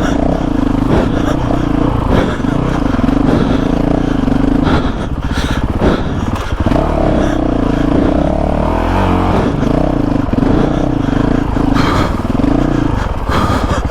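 Honda CRF450RL's single-cylinder four-stroke engine pulling at low revs over loose rock, the throttle rising and falling, with several sharp knocks and clattering of rocks against the bike.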